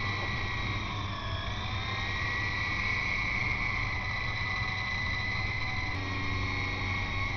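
E-flite Blade CX2 coaxial electric RC helicopter in flight: the motors and rotors give a steady high whine whose pitch wavers briefly about a second in, over a low rumble of wind on the microphone.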